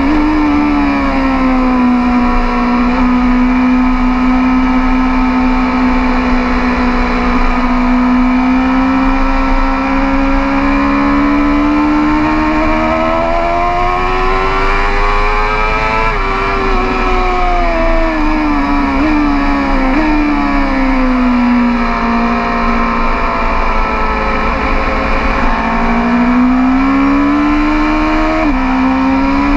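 BMW S 1000 RR superbike's inline-four engine heard onboard at speed. The revs hold, climb and fall, and the pitch drops sharply twice after climbing, once about halfway and once near the end, as at an upshift.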